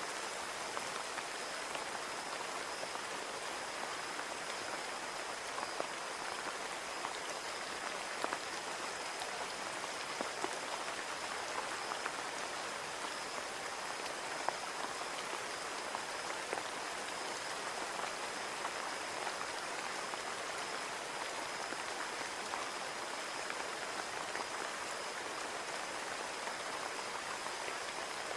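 Steady rain on window glass: an even hiss of rainfall with scattered individual drops ticking against the pane.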